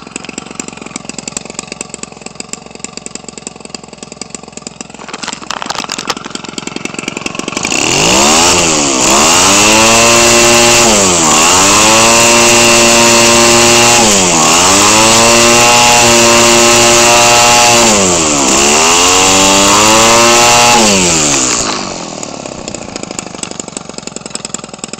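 Homelite 25cc two-stroke engine, converted for a model airplane and turning a propeller, idling, then opened up to full throttle about eight seconds in. It screams at high revs for some thirteen seconds with a few brief dips in speed, then drops back to idle near the end.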